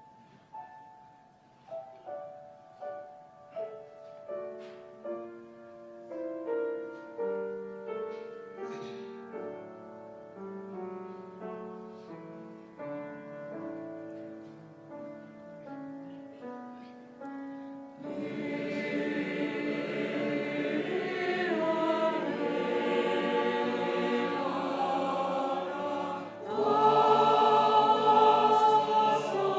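Church choir singing a Christmas cantata number. It begins with an instrumental introduction of separate, fading notes, and the choir comes in about two-thirds of the way through, swelling louder near the end.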